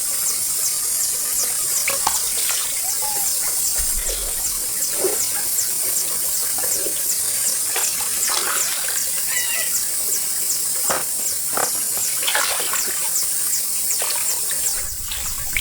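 Water splashing and sloshing in short, irregular bursts as hands work through shallow pond water and mud. A steady high-pitched pulsing chirr, about three pulses a second, runs underneath.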